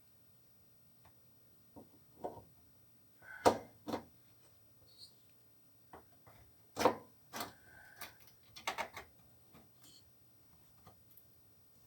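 Irregular knocks and clicks of parts and tools being handled during washing machine repair work. The two loudest come about three and a half and seven seconds in, with a quick cluster near nine seconds.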